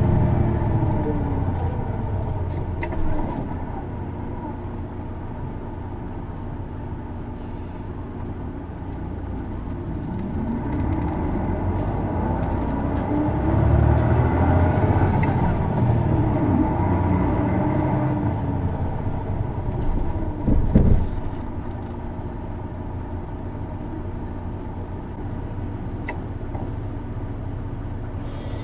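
Isuzu Erga city bus's diesel engine heard from inside the cabin, its pitch climbing and falling as the bus accelerates and slows. This particular bus is known for a distinctive abnormal engine noise. There is a short loud knock about two-thirds of the way in, after which the engine runs steadier and quieter.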